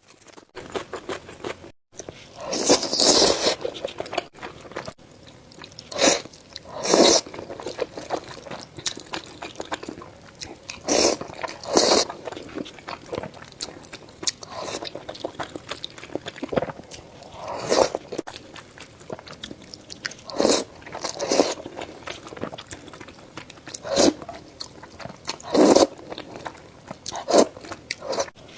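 Close-miked eating: a person biting and chewing food with crunchy, wet mouth sounds, loud bites coming every few seconds, often two about a second apart.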